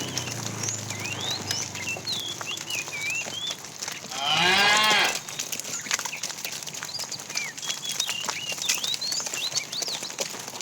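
A cow gives one loud call about four seconds in, a roughly one-second moo that rises steeply in pitch, while the tail of an earlier low moo fades at the start. Small birds chirp throughout.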